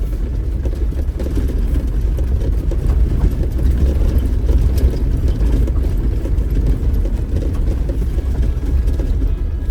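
Off-road vehicle driving along a dirt trail: a steady, low engine and road rumble.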